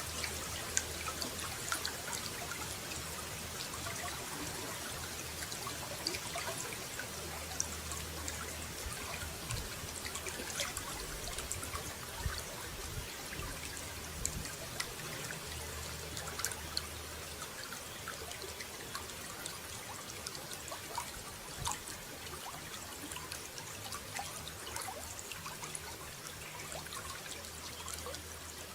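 Water running and trickling steadily, with many small splashes and drips.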